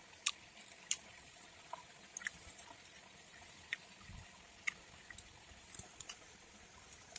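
A person chewing food close to the microphone with the mouth closed: faint, with scattered sharp wet clicks every half second to a second and a soft low thump about four seconds in.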